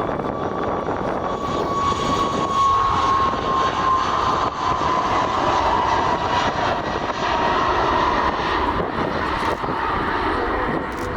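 Airliner engines as a plane passes: a loud rushing noise, strongest in the middle, with a high whine that slowly falls in pitch.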